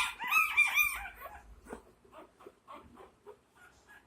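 Pitbull puppies whimpering and squealing in short, high-pitched cries, several at once and loudest in the first second, then fainter and more spaced out.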